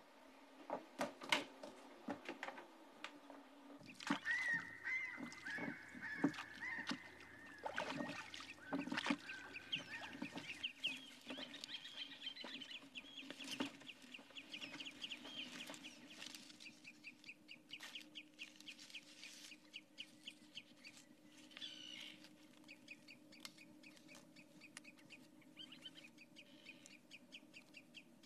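Birds calling, with fast repeated chattering notes through the second half over a steady low hum.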